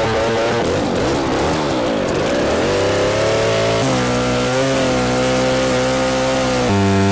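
Chainsaw engine running. Its pitch rises and falls in the first few seconds, then holds steady, with sudden jumps in pitch three times.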